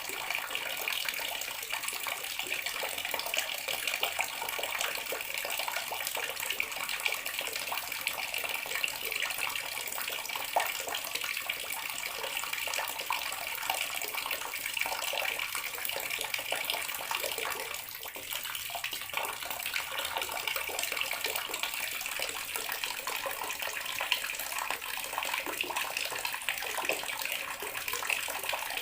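Bathroom water tap running steadily, its stream splashing into a basin or tub with a constant hiss and patter.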